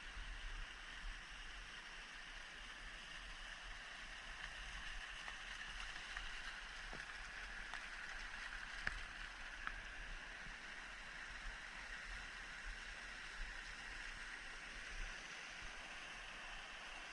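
Shallow stream with little water in it, running over rocks: a steady hiss of water, with a few faint clicks in the middle.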